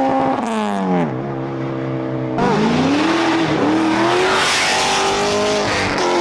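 A car engine at high revs drops to a lower steady pitch about a second in, then climbs hard again and is held at high revs. A hiss of tire noise sits under it.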